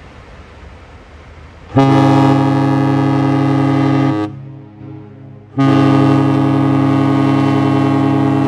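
Cruise ship Octantis's whistle sounding two long, deep blasts as a salute, the first starting about two seconds in and the second about a second and a half after the first stops.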